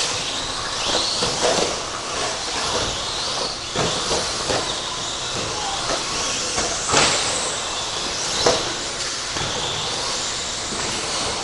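Electric RC stadium trucks with 13.5-turn brushless motors racing on the track: motor whine rising and falling with throttle over a steady hiss of tyres, with sharp knocks about 4, 7 and 8.5 seconds in.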